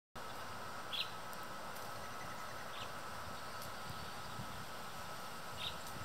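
Steady outdoor background hiss with a faint, even drone, and three brief high chirps from a small bird: about a second in, near the middle, and just before the end.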